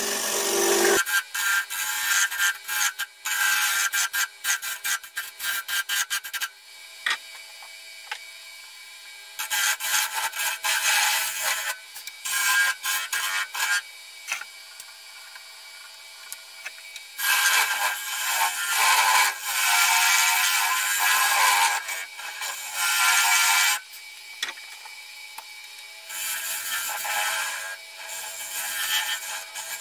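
Carbide-tipped turning tool cutting a spinning chestnut bowl blank on a wood lathe: a hissing, scraping sound in passes of a few seconds with short pauses between. The cuts are short and choppy for the first several seconds, then longer passes follow.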